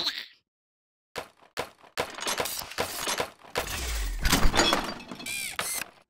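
Cartoon slapstick sound effects: after a brief silence, a string of sharp knocks and crashes, with a sound of something breaking.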